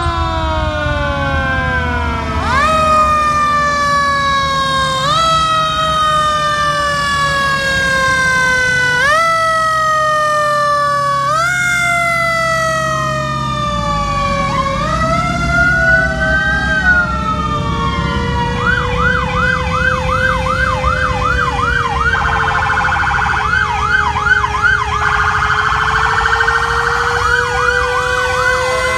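Several fire truck sirens sounding at once in overlapping rising and falling wails. About two-thirds of the way in, a fast warbling yelp and a slow, lower-pitched wail join them, over the low rumble of the trucks.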